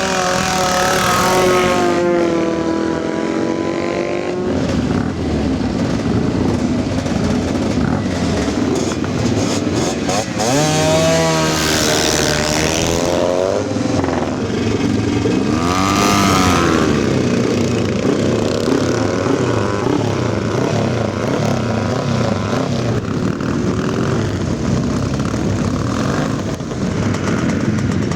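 Classic motorcycle engines running loud, with several bursts of revving that rise and fall in pitch over the steady engine noise.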